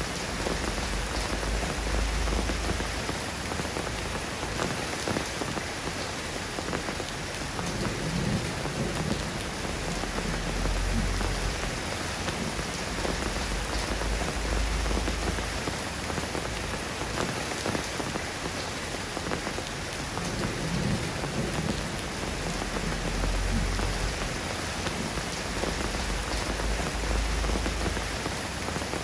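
Steady rain falling and pattering on surfaces, an even hiss of many drops, with low rumbles swelling now and then underneath.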